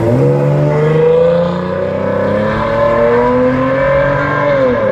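A car engine accelerating loudly as the car pulls away, its note climbing steadily for about four seconds and then dropping near the end.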